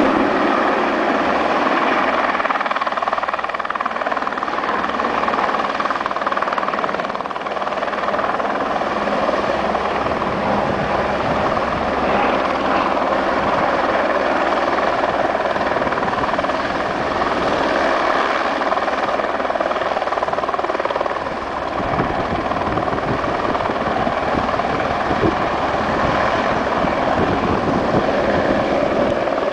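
Helicopter running steadily with a rapid rotor chop, taking on water.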